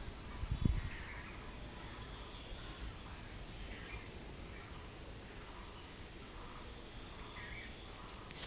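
Outdoor background noise with small birds chirping, short high calls repeating about once a second. A low thump about half a second in.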